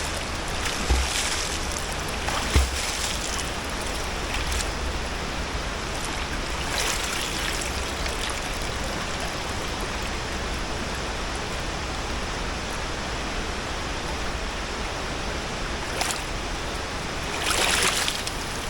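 River water running steadily over rocks, with a couple of low bumps in the first few seconds and a brief louder surge of water noise near the end.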